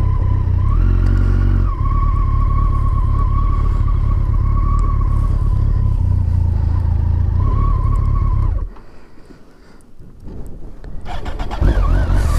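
Kawasaki ZZR1400's inline-four engine running steadily at low speed, with a brief rise in revs about a second in. Its sound drops away suddenly about two-thirds through and comes back near the end.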